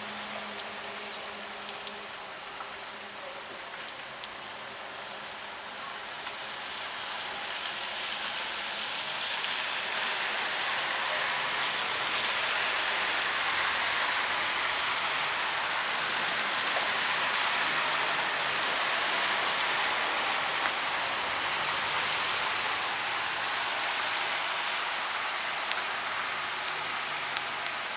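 Heavy rain falling on a flooded street, a steady hiss that grows louder a quarter of the way in and then holds, with a few faint ticks of drops.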